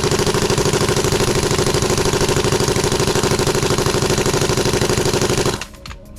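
Impact wrench hammering steadily on a transfer-case bolt, a fast even run of blows over a steady motor whine, cutting off about five and a half seconds in.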